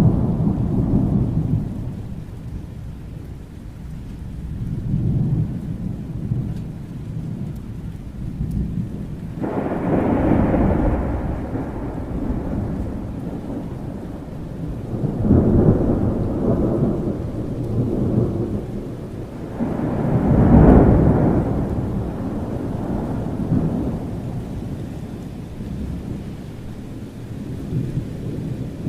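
Thunderstorm: steady rain with repeated rolls of thunder that swell and fade every few seconds. One clap breaks in sharply about ten seconds in, and the loudest rumble comes about twenty seconds in.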